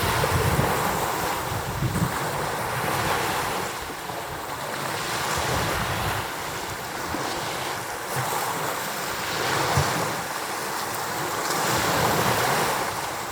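Rough-sea surf pounding the shore, its roar swelling and easing every few seconds, with strong wind buffeting the microphone in low rumbles, heaviest in the first couple of seconds.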